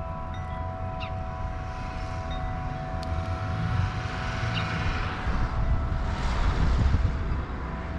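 A passing aircraft overhead, its rumble swelling to its loudest about seven seconds in and then dropping away. Wind chimes hold steady ringing tones throughout.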